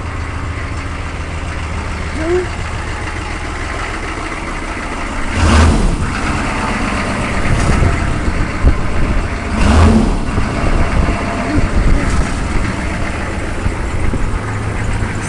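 GMC 6.5-litre V8 turbo diesel engine idling steadily, with two brief loud bursts about four seconds apart near the middle.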